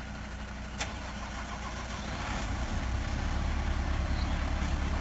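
Truck engine running steadily, growing louder from about two seconds in, with one sharp click just under a second in.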